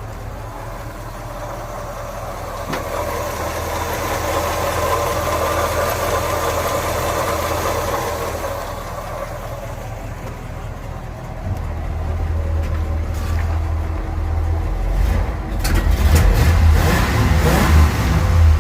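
1948 Ford F5 bus engine idling steadily through its new custom exhaust and muffler, running smooth and quiet. It grows louder about two-thirds of the way through.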